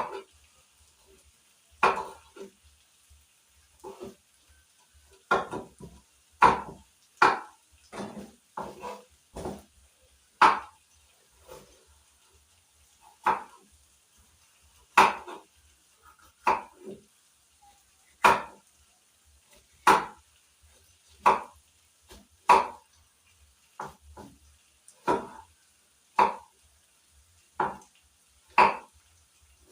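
A spoon knocking and scraping against a cooking pot while stirring a pot of chicken gizzards cooking in tomatoes, with a sharp clack about every second or so.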